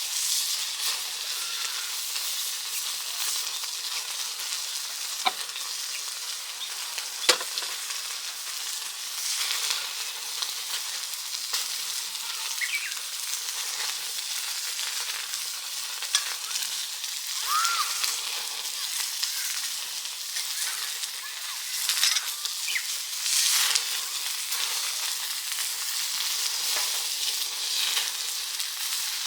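Meat sizzling and spitting on a hot yakiniku grill plate: a steady frying hiss with scattered crackles and a couple of sharp pops.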